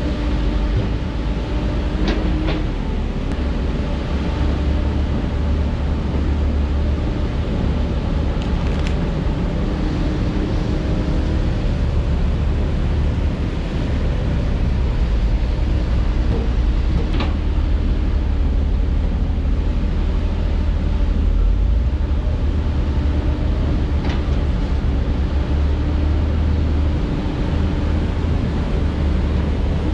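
Heavy diesel engine of construction equipment, such as an excavator or dump truck, running steadily, with a few sharp knocks now and then.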